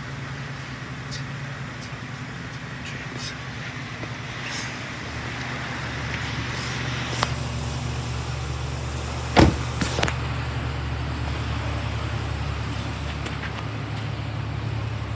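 2015 GMC Sierra 3500HD pickup's engine idling on a cold start, steady, with its note changing and getting stronger about five seconds in. A sharp knock about nine seconds in, followed by a smaller one, is the loudest sound.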